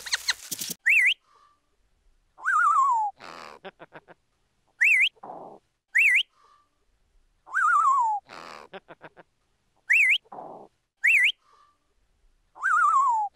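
Parrot whistles and calls: short chirps that rise and fall, a wavering whistle that slides downward, and a raspier call, repeating in the same order about every five seconds.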